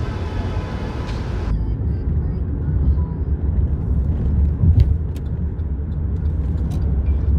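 Steady low rumble of a moving vehicle, with a hiss on top that cuts off suddenly about 1.5 s in and a few faint clicks later.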